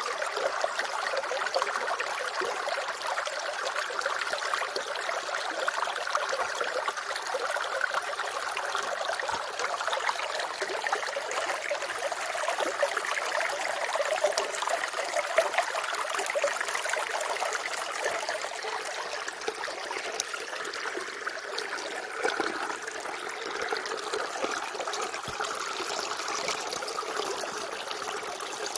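Running water trickling and babbling in a steady, continuous flow.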